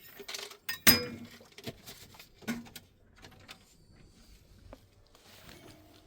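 A few knocks and clatters of things being handled and set down in a small room, the loudest a sharp knock about a second in and another about two and a half seconds in, then softer small clicks.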